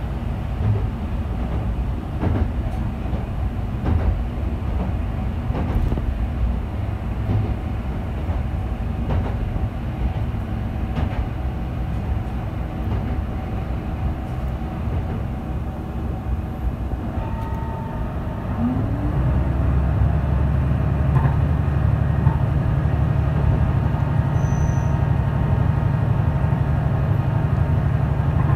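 YR-2000 diesel railcar running, heard from inside the car: a steady low rumble with the wheels clicking irregularly over the rail joints. About two-thirds of the way through the rumble steps up and stays louder.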